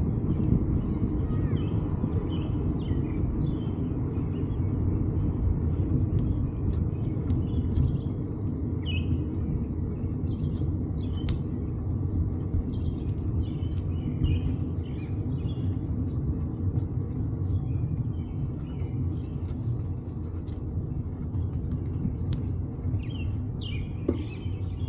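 A steady low rumble of wind buffeting the microphone on a moving bicycle, with birds chirping on and off throughout.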